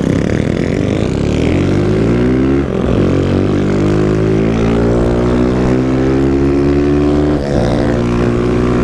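Motorcycle engine accelerating hard through the gears, heard from the rider's seat: its pitch climbs steadily, drops sharply at an upshift about a third of the way in, climbs again, and drops at a second upshift near the end.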